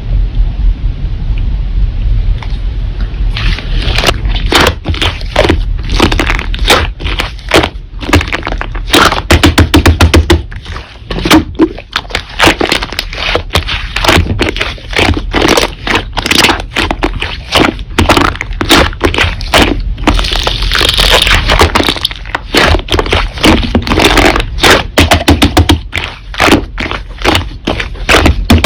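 Slime being squeezed and pressed by hand, with dense crackling and popping clicks.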